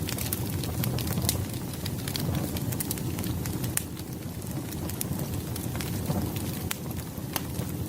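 Firewood fire crackling: frequent sharp, irregular pops over a steady low rumble of the flames.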